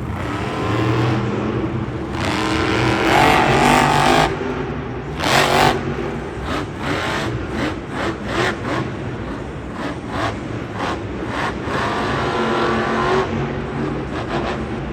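Monster truck engine revving hard in repeated surges, loudest about three to four seconds in and again about five and a half seconds in, with short sharp bursts in between.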